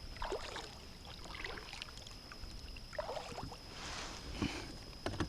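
Kayak being moved along the water: soft, scattered splashes and light knocks, with a short swish of water about four seconds in.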